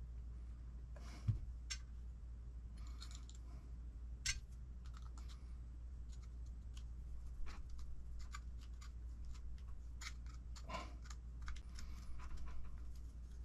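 Small hard parts and hand tools clicking, tapping and clinking irregularly during hand assembly of an RC car transmission, with one louder knock about a second in.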